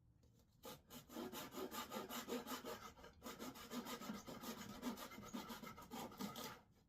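Quick, even back-and-forth strokes of a hand tool working wood, such as hand sawing or sanding. The strokes start under a second in and stop shortly before the end.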